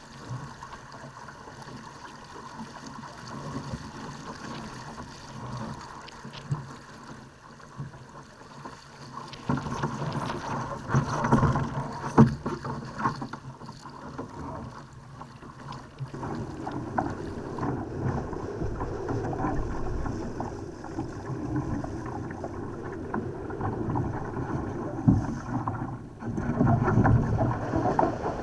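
Water rushing and splashing along a Laser sailing dinghy's hull under way in strong wind, with wind buffeting the microphone. Now and then the hull slaps into a wave with a sharp thud, and the rush grows louder after the middle.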